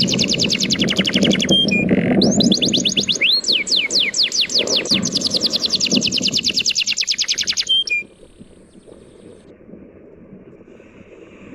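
A songbird singing long, fast trills of repeated high downward-sweeping whistles over a low steady wash of sea waves. The birdsong stops suddenly about eight seconds in, leaving only the quieter wash of the waves.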